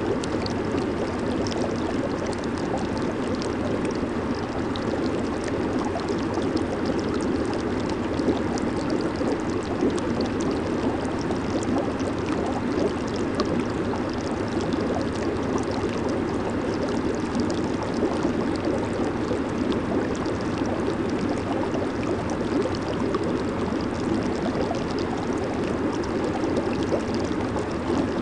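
Hot tub water churning and bubbling steadily, a dense rush of water with fine crackling bubble pops over it.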